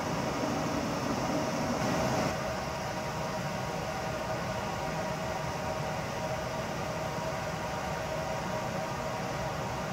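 Low rumble of a freight train on the line that cuts off abruptly about two seconds in, leaving a steady background hum with a faint held tone.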